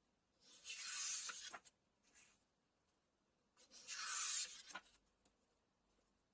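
Paper pages of a book being turned: two swishes about three seconds apart, each lasting about a second, with a faint rustle between them.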